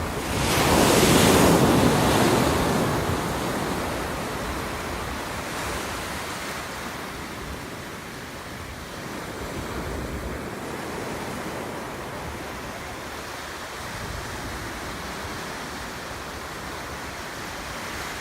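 Ocean waves: a wave breaks loudly about a second in, then washes out into a steady surf hiss that slowly fades, with the next wave building near the end. Low wind rumble on the microphone.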